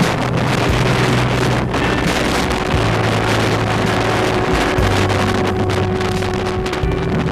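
Strong wind buffeting the microphone over the rush of heavy surf, with a faint steady hum underneath.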